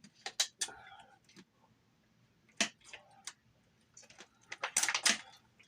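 Close-up eating sounds: scattered short clicks and smacks of a person chewing, in irregular clusters with quiet gaps.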